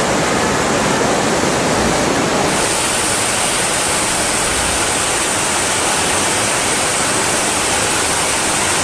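Loud, steady rush of floodwater, with a high hiss joining in about two and a half seconds in.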